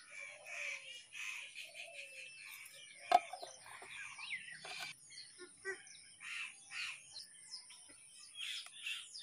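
Birds chirping and calling repeatedly in short, quick notes, with a single sharp knock about three seconds in.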